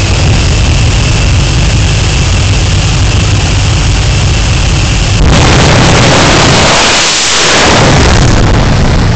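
Jet truck's jet engine running loud with a steady high whine over its rush, then about five seconds in a sudden, louder full-range blast that lasts about three seconds before easing back.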